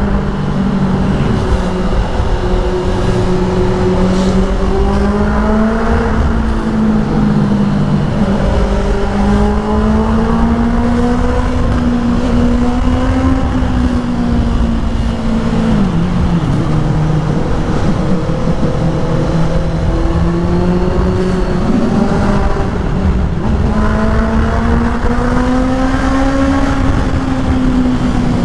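Honda CBR650R's inline-four engine through an aftermarket full exhaust, under way at moderate revs. The pitch rises and falls with the throttle, dropping about halfway through and climbing again near the end, over steady wind and road noise.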